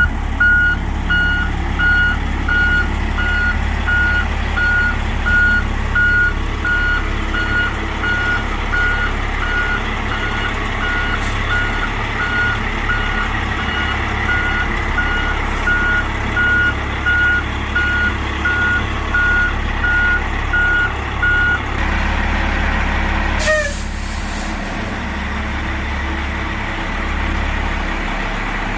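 A truck's reversing alarm beeping steadily, about one and a half beeps a second, over the low running of its engine; the beeping stops about three quarters of the way through. Soon after there is a brief hiss of air.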